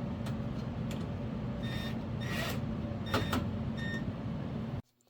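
Metal furnace parts clinking and tapping as the gas manifold is handled and fitted back in place, a handful of short clicks, some with a brief metallic ring. A steady background hum runs underneath and cuts off abruptly near the end.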